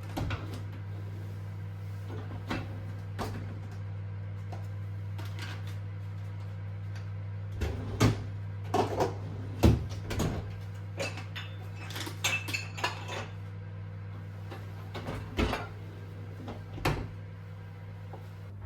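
Kitchenware being handled: dishes and utensils set down and moved in a scattered series of sharp clinks and knocks, loudest in the middle, over a steady low hum.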